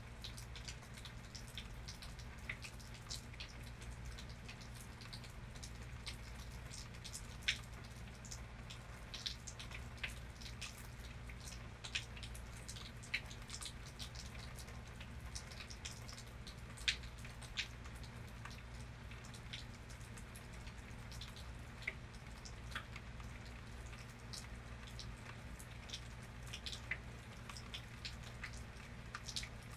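Rain dripping: scattered individual drops ticking irregularly onto a surface, a few landing louder, over a steady low hum.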